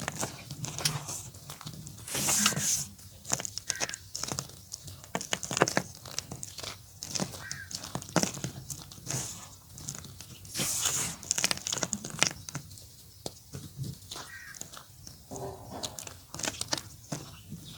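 Gym chalk being crumbled: a run of irregular crunches and crackles, with two longer rustling stretches about two and eleven seconds in.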